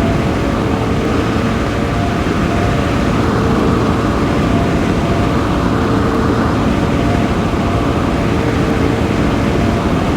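Car being driven at a steady pace: constant engine and road noise, with faint tones that come and go.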